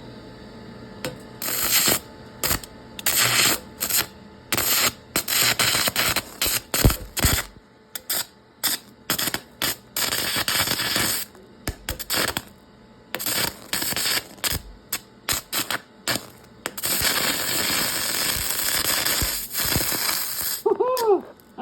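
Stick-welding arc crackling and sputtering with cheap, brittle welding rods, which the welder suspects are zinc. The arc catches and cuts out again in many short bursts, then holds for one longer unbroken run of about three seconds near the end.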